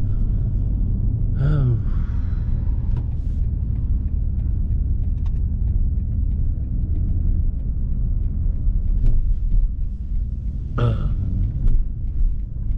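Steady low rumble of a BMW M5 Competition (F90) being driven: its twin-turbo V8 running at an even pace with road noise, with no hard acceleration.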